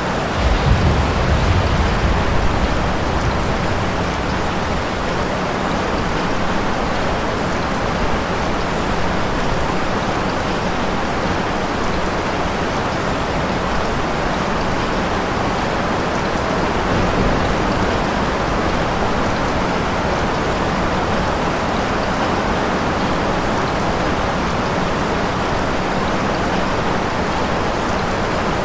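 Steady rain falling, with a low rumble of thunder about half a second in that fades out over the next couple of seconds.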